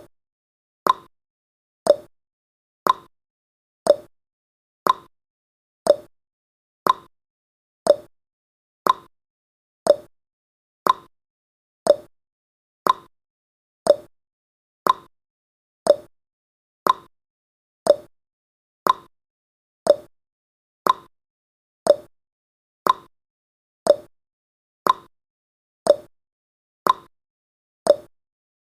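Countdown timer's clock-tick sound effect: one short click each second, alternating higher and lower in pitch like a tick-tock.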